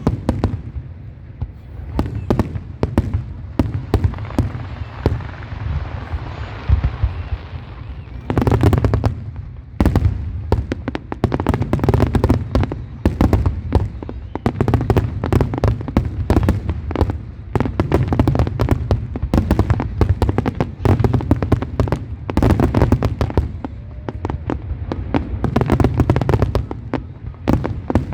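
Fireworks display: a dense, continuous string of bangs and crackles, with a hiss between about two and eight seconds in and heavier volleys after that.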